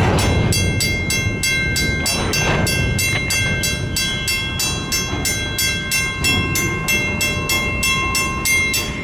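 Long freight train rolling past at about 27 mph: a steady rumble of steel wheels on rail, with a rapid even clicking and faint steady high-pitched ringing from the wheels and rails.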